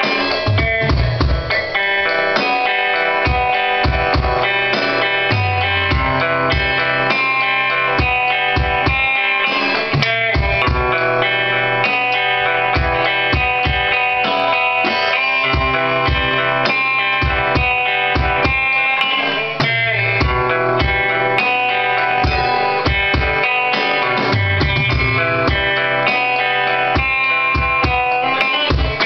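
Instrumental jam: guitar playing sustained notes over a drum kit keeping a steady beat.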